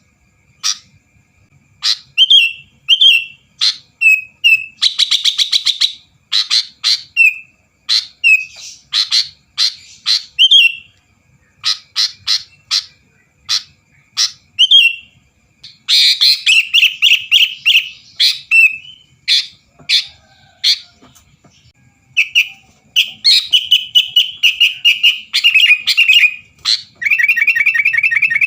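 Sooty-headed bulbul (kutilang) singing vigorously: a stream of sharp, loud chirps and short warbled phrases, broken by rapid trilled runs about five seconds in, from about 16 to 18 seconds, and near the end.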